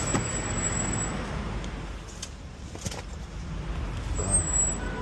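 Steady low rumble of a vehicle or road traffic, with a few faint clicks.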